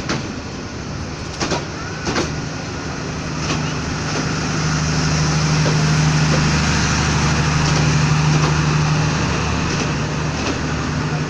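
Passenger train running: a steady rushing noise with a low hum that swells through the middle, and a few sharp clacks in the first couple of seconds.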